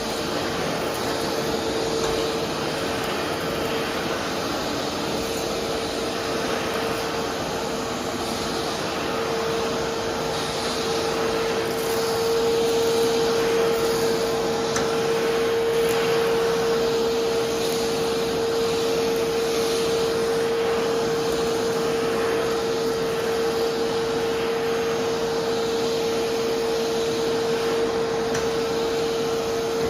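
Vacuum cleaner running steadily, its motor giving a constant whine over the rush of air, getting a little louder partway through.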